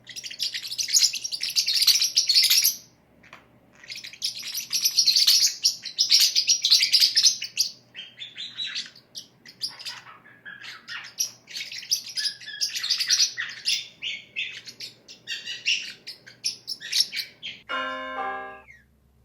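Small pet parrot chirping and chattering in rapid, high-pitched bursts, with short pauses between runs. A few ringing, bell-like tones sound near the end.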